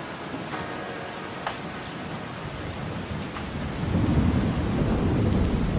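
Steady rain with a few single drops ticking close by. About four seconds in, a low rumble of thunder swells up and becomes the loudest sound.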